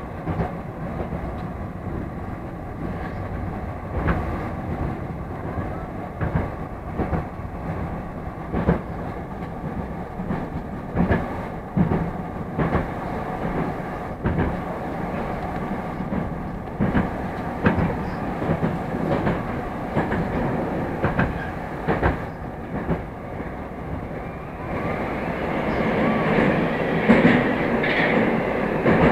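Moscow metro train running between stations: a steady rolling noise with irregular clicks of the wheels over rail joints, growing louder about 25 seconds in.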